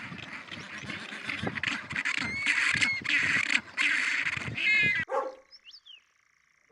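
Dog barking and whining in a dense run of overlapping calls that cuts off suddenly about five seconds in.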